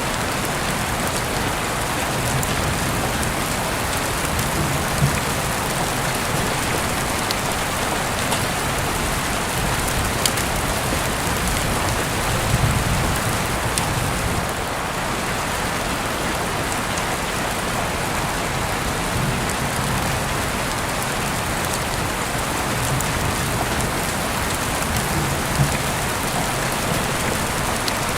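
Heavy rain falling steadily, with a few sharper drop taps standing out here and there.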